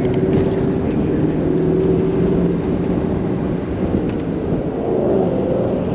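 Car engine running steadily, its pitch rising briefly about five seconds in.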